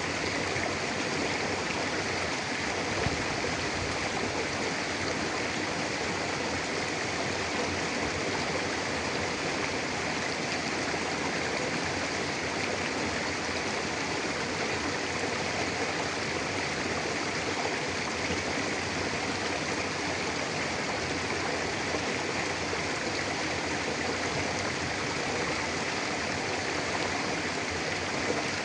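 Mountain river rushing steadily over rocks, a continuous even flow with no pauses.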